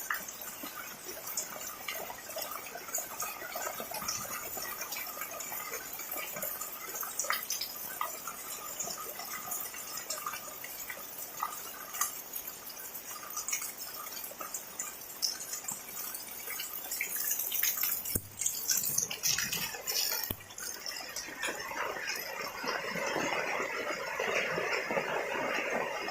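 Heavy rain falling, with many separate drips and splashes. About two-thirds of the way through, a fuller, denser wash of water comes in and holds to the end.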